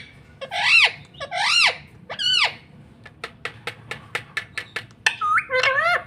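Rose-ringed (ringneck) parakeet giving three shrill screeches that rise and fall. A quick run of sharp clicks follows, and then a warbling chatter near the end.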